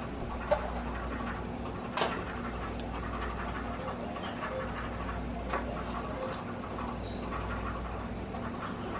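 A scratch-off lottery ticket being scratched, a steady scratching of the coating with a few sharper clicks along the way.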